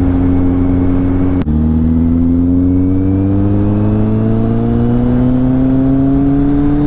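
Kawasaki Z800's inline-four engine under way. It holds a steady note, shifts up quickly about a second and a half in, then the note climbs slowly and steadily as the bike accelerates in the new gear.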